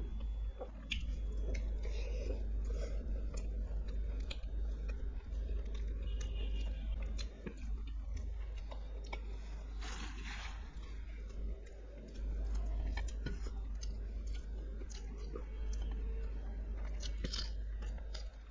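A person chewing and biting food close to the microphone, with wet mouth sounds and occasional crunchy bites, over a steady low hum.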